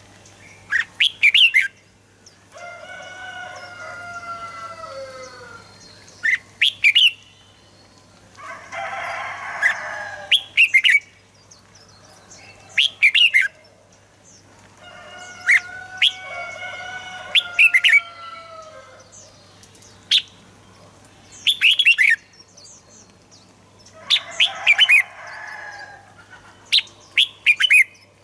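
Red-whiskered bulbul singing: short loud bursts of quick, sharp whistled notes every few seconds, with softer, longer warbling phrases in between.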